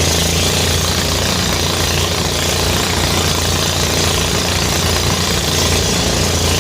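Engine-driven rice thresher running steadily at a constant loud level: a deep steady hum under a dense hiss.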